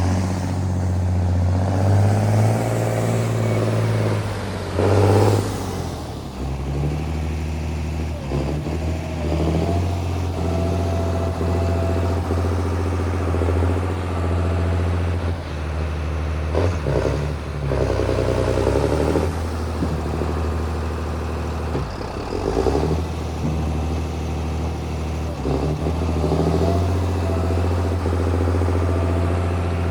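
John Deere 8220 tractor's six-cylinder diesel engine running steadily under way. Its drone swells and shifts in pitch a few times as engine speed changes.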